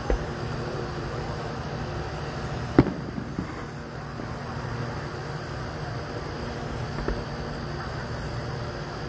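Fireworks booming: a few separate sharp bangs, the loudest about three seconds in and a weaker one near the seven-second mark, over a steady low hum.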